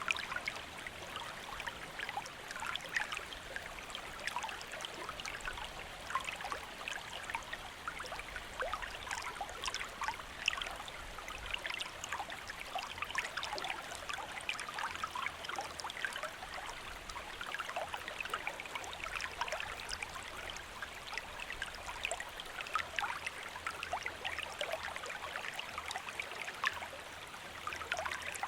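Shallow stream flowing steadily over rocks, a continuous babble of small splashes and trickles.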